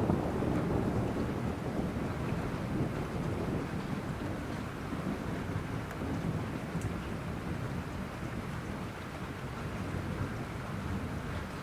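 Steady rain, with a low rumble of thunder that is loudest at the start and dies away over the next few seconds.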